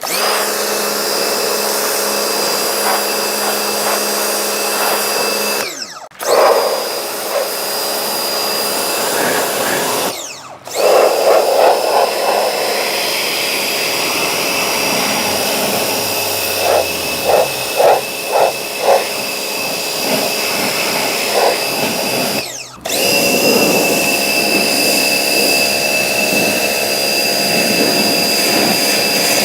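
Pressure washer running with a steady high whine and the hiss of its spray. It cuts out briefly three times, and there are a few short spurts in the middle.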